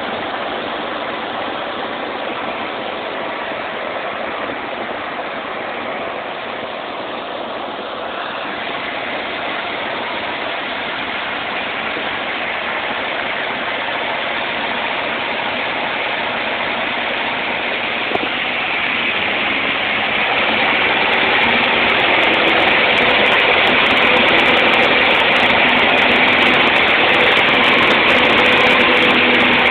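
Cessna 150's four-cylinder Continental O-200 engine and airflow running steadily, heard as continuous cabin noise. It grows louder about twenty seconds in, with a low engine hum coming through more clearly.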